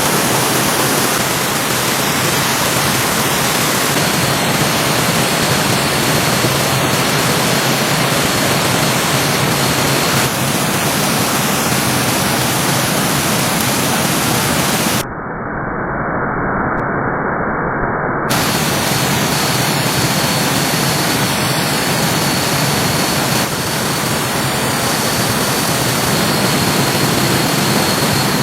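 Rushing stream water, a loud and steady even noise. For about three seconds past the middle it turns duller, with its high end cut off.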